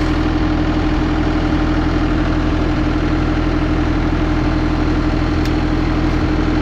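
Bad Boy 4035 compact tractor's diesel engine idling steadily with an even hum.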